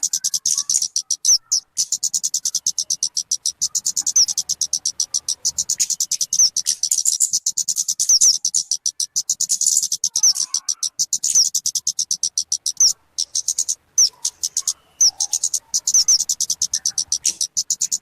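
Talokan (kemade) bird calling: a rapid, unbroken run of short high chirping notes, many a second, with two brief pauses past the middle.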